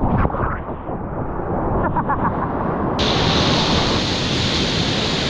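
Rushing whitewater of a river rapid, with wind buffeting the microphone. About three seconds in the rush turns suddenly brighter and hissier.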